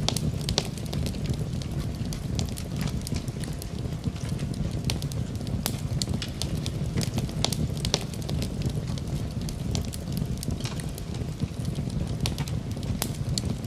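Fire burning in a fireplace, crackling and popping irregularly over a steady low rumble.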